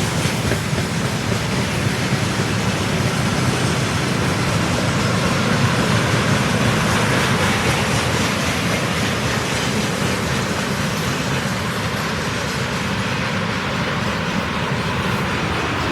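Freight train wagons rolling past on the track, a loud, steady rolling noise of wheels on rails.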